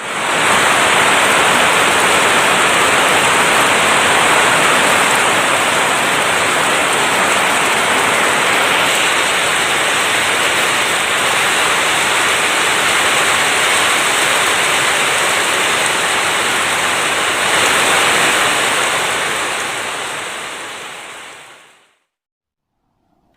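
Heavy, steady downpour of rain, a dense even hiss that fades out near the end.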